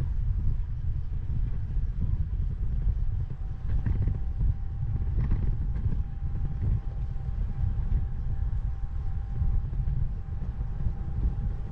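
Wind buffeting the camera microphone on a moving bicycle, a steady low rumble mixed with tyre noise on the path. A faint steady whine comes in a few seconds in.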